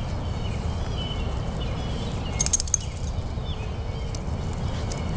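Outdoor ambience with a steady low rumble and faint bird chirps scattered throughout. A brief crackle of rustling comes about two and a half seconds in.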